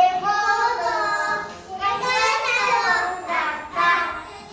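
Young children singing a Korean children's song, in held notes phrase after phrase.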